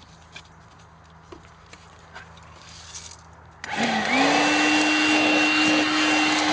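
A few faint clicks as a nozzle attachment is fitted, then, about two-thirds of the way in, a Makita cordless vacuum cleaner is switched on: its motor spins up with a short rising whine and settles into a steady running note over a loud rush of air.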